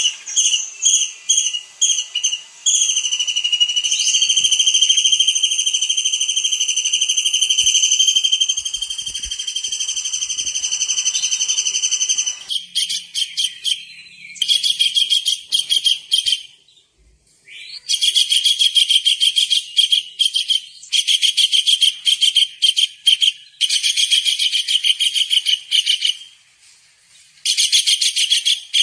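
Tengkek udang (small kingfisher) calling. It starts with short repeated high notes, holds one piercing whistle for about nine seconds, then breaks into fast trills in bursts separated by short pauses, with a brief rising note just before the trills pick up again.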